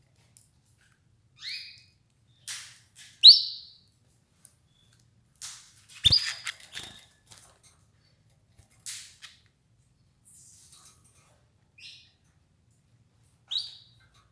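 Domestic canaries giving short, separate chirp calls every few seconds, the loudest about three seconds in, with brief scratchy noises between them and a low knock about six seconds in.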